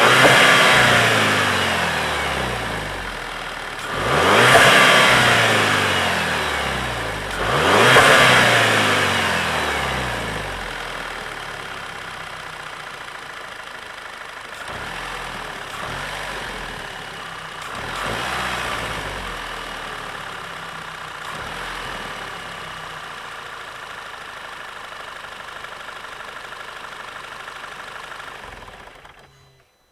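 Stock VW Golf 6 GTI's 2.0 TSI turbocharged four-cylinder engine and exhaust, revved three times in sharp rises that fall away over a few seconds each, then running lower and steadier with a few small blips. The sound cuts off suddenly near the end.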